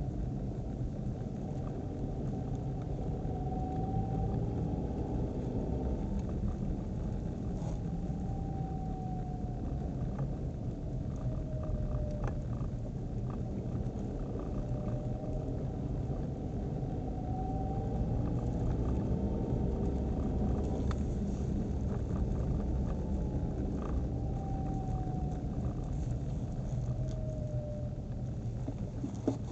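Nissan Qashqai transmission howl over steady road rumble: a thin whine that slowly rises in pitch and then falls away, twice, as the car speeds up and slows down.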